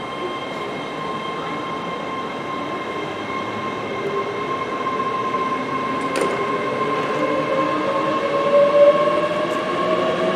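Passenger trains moving through a station: a steady high electric hum, joined about halfway by a whine that rises in pitch and grows louder, with a single sharp click about six seconds in.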